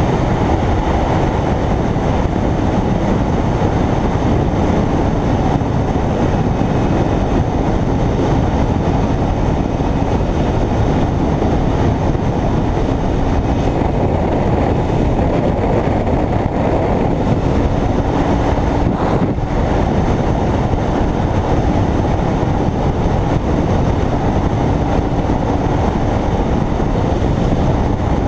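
Kawasaki Ninja 300's parallel-twin engine running at a steady cruise, mixed with loud wind and road rush.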